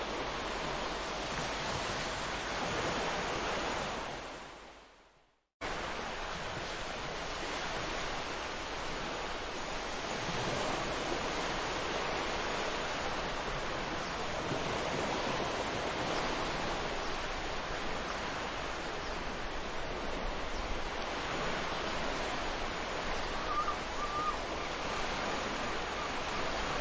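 Sea waves washing onto a beach, a steady rush of surf. It fades out about four seconds in, goes silent for a moment, then cuts back in abruptly. A short bird call can be heard near the end.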